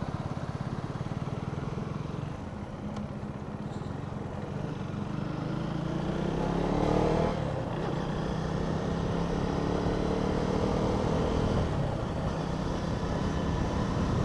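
KTM 250 Duke motorcycle's single-cylinder engine running as the bike rides off and picks up speed. Its note rises once about six seconds in under acceleration, then holds fairly steady.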